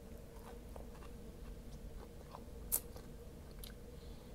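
Close-up chewing and biting of fried pork rib meat, with small wet mouth clicks and smacks. One sharp, much louder click comes about two-thirds of the way through.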